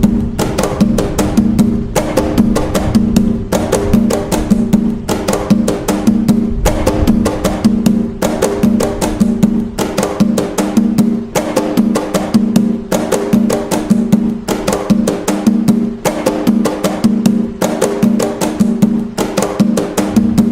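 Atabaque drums playing the toque Nagô, an Umbanda rhythm, as a fast, steady, continuously repeating pattern of strokes over a ringing low drum tone.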